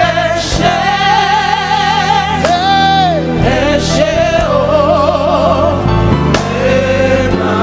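Live gospel worship music: a lead voice sings a wavering melody with vibrato over a band's steady sustained keyboard and bass.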